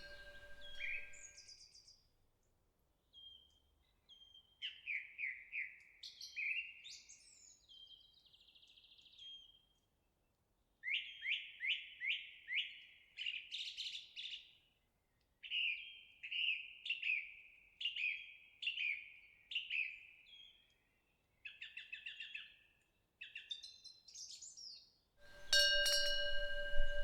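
Songbirds singing in phrases of quick, evenly repeated chirps, with short pauses between phrases. A temple wind bell's ringing dies away at the start and starts again near the end.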